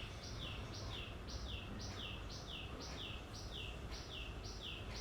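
A bird calling over and over in a steady rhythm: short falling chirps that alternate between a higher and a lower note, about four a second, faint under a low steady hum.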